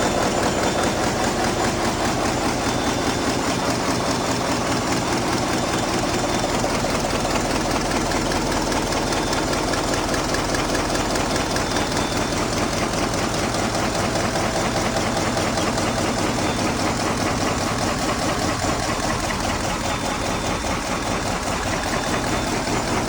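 MaK marine diesel main engine running steadily in the engine room, a loud, even mechanical din with a fast regular pulsing beat.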